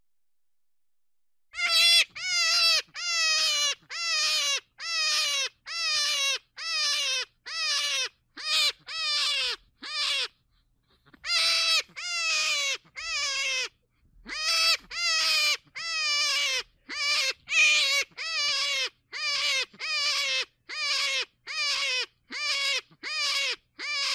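An animal's call repeated over and over: short cries about two a second, each falling in pitch, starting about a second and a half in and pausing briefly twice.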